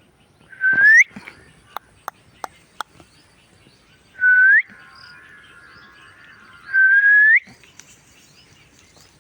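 Indian ringneck parrot whistling three times, each a held note that sweeps sharply upward at the end, with a few sharp clicks and a faint warble between the whistles.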